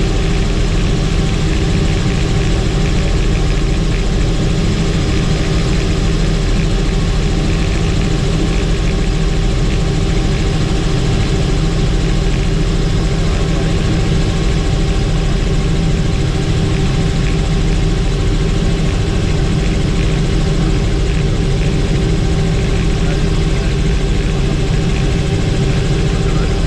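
Helicopter in flight: a steady, unchanging drone of engine and rotor.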